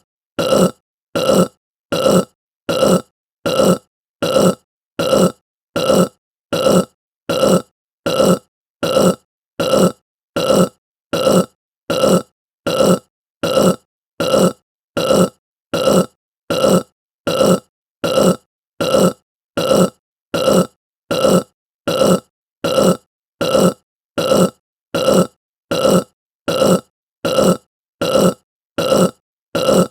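A short human burp repeated over and over at an even pace, about three every two seconds, each one alike and with silence between.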